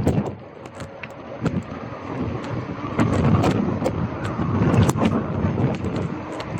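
Scott Scale Gravel 10 bike ridden over a rough street surface: tyres rumbling, with frequent sharp rattles and clicks from the bike, and wind on the microphone. The rumble grows louder about halfway through.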